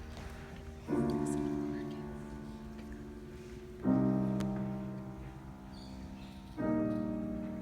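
Piano playing slow held chords, one struck about a second in, another about four seconds in and a third near the end, each left to ring and fade.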